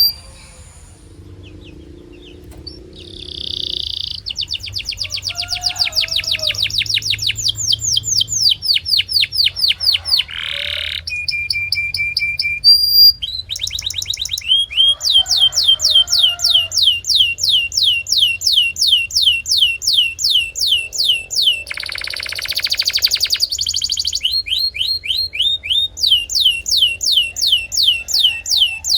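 Domestic canary singing: long, fast trills of the same sweeping note repeated many times, one trill after another with brief breaks between them. The song is quieter for the first couple of seconds.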